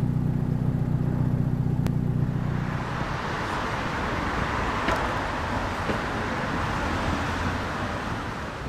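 A car engine running with a steady low note, which fades out about three seconds in, leaving a steady noise of traffic or road.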